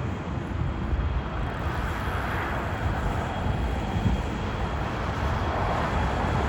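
Jet airliner engine noise: a steady rushing roar with a low rumble underneath and a faint high whine.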